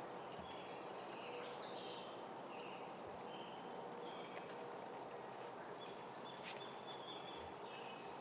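Birds chirping and singing in short high phrases over faint outdoor background noise, with one sharp click about six and a half seconds in.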